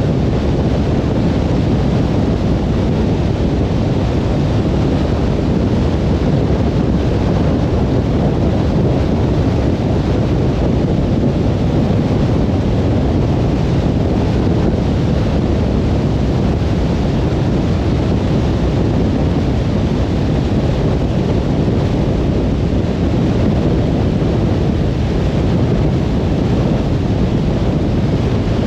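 Steady road noise of a car travelling on a motorway: a low tyre rumble with wind hiss over it, even and unbroken.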